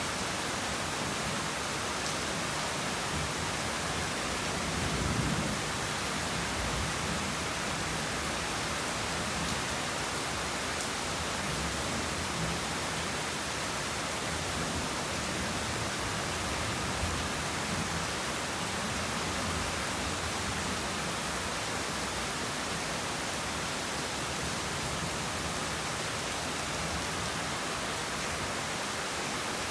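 Heavy rain falling steadily, an even hiss, with a brief low swell about five seconds in.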